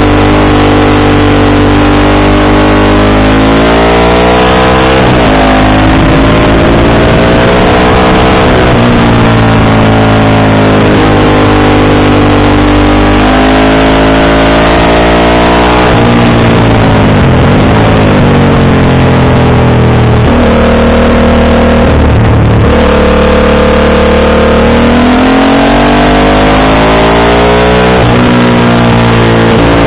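Motorcycle engine running loudly under way, its pitch repeatedly rising as it accelerates and falling as it eases off, with short stretches held steady.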